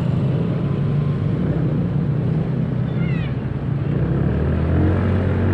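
Motorcycle riding noise: a small engine running steadily under wind and road rush. A brief run of high, falling chirps sounds about three seconds in, and a deeper, steadier engine note comes in near the end.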